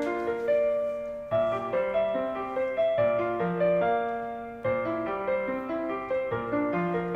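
Piano playing an instrumental break in a worship song: gentle chords and a melody of struck notes that ring and fade, with low bass notes every second or two.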